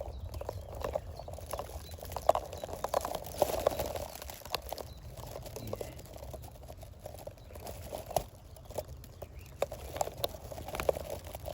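Close rustling and crackling of dry grass and leaves being handled, an irregular run of small snaps and crinkles.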